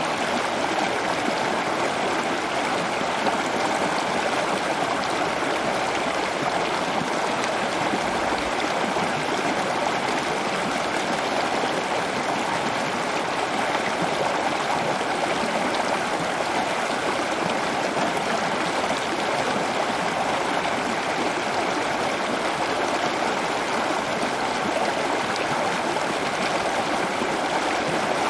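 Steady rush of running water, like a small stream or water feature, unchanging throughout.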